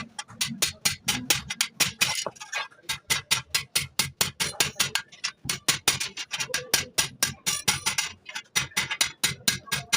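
A hammer tapping rapidly on metal, about four or five sharp strikes a second, as in clutch plate repair work.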